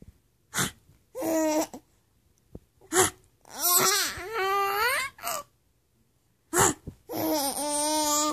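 A mother's silly vocal noises and a baby's babbling laughter: three short sharp vocal bursts, each followed by a long drawn-out voice sliding up and down in pitch.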